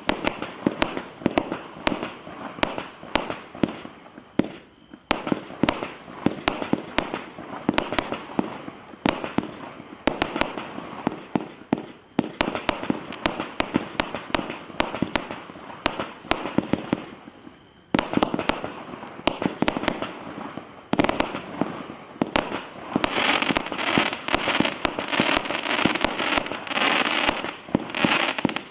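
Consumer firework barrages firing in rapid succession: a dense run of sharp bangs with crackle. Two short lulls break the firing, about five seconds in and again around eighteen seconds, and near the end the crackle thickens into a continuous fizzing crackle.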